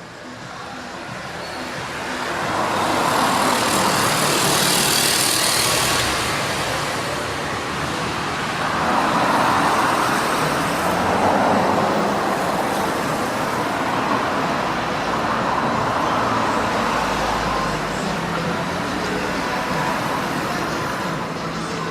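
Street traffic with cars passing on a city avenue. It fades in over the first few seconds, and the noise swells twice as vehicles go by.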